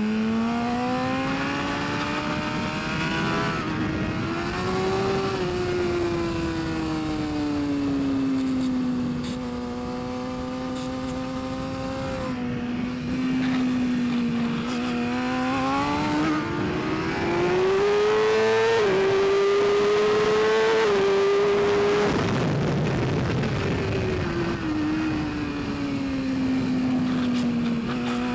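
Racing superbike engine revving up and down through the gears, its pitch climbing and falling over several seconds at a time. The highest, loudest stretch comes about two thirds of the way in, then drops off sharply.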